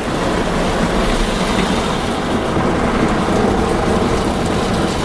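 Mark VII ChoiceWash XT automatic car wash working over the car, heard from inside the cabin: a loud, steady rush like heavy rain, with a deep rumble underneath.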